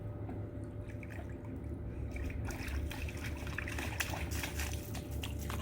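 Water trickling steadily, with scattered small clicks and a low steady rumble beneath.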